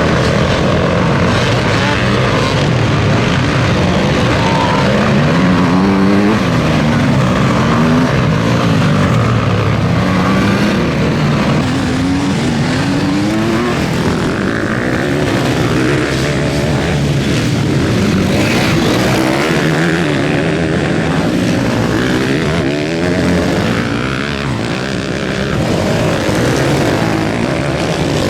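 Several motocross bikes racing on a dirt track, their engines revving up and dropping off over and over as they accelerate and shift. Many engine pitches overlap, rising and falling, with no let-up.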